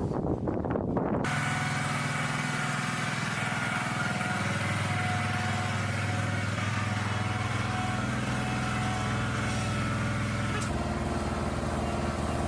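A little over a second of wind-like rumble, then a steady engine drone made of several held tones. The tones shift in pitch near the end.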